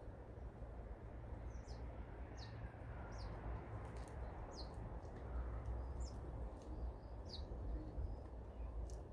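Small garden birds chirping: a string of short, high notes, each sliding down in pitch, repeated every second or so, over a steady low rumble.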